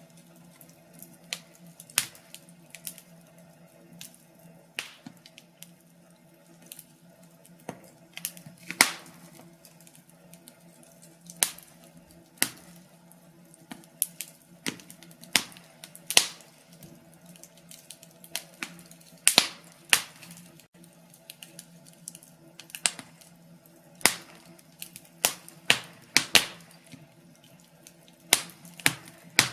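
Wood fire crackling in a fireplace: irregular sharp pops and snaps, several of them loud, over a faint steady low hum.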